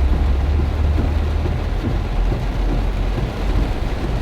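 Heavy rain pouring steadily, with a deep low rumble that eases about a second and a half in.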